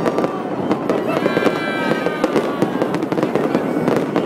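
Aerial fireworks display: a dense, unbroken barrage of shell bursts and crackling, many sharp pops a second.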